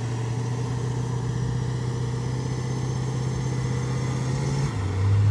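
Toyota LandCruiser 200 Series V8 engine running steadily while the truck works through soft sand. Near the end its note drops lower and gets louder.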